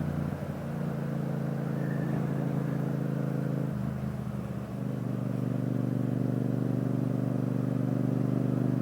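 2015 Yamaha FZ-07's parallel-twin engine with an Akrapovic titanium exhaust, running at low speed. Its note changes and dips about four seconds in, then holds steady.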